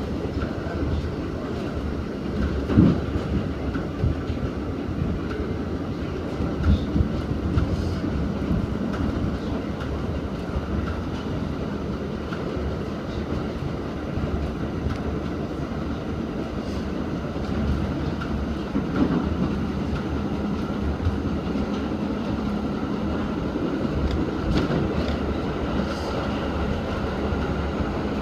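R68 subway car running along the track, heard from inside the car: a steady rumble of wheels on rail, broken by a few louder knocks about 3 and 7 seconds in and again near 19 seconds.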